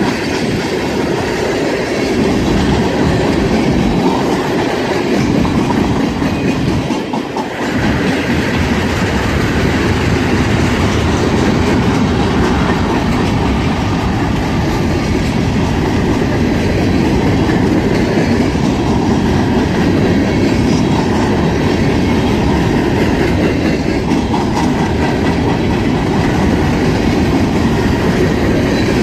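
CSX train's cars rolling past close by: a loud, steady rush of wheel and car noise on the rails, dipping briefly about seven seconds in.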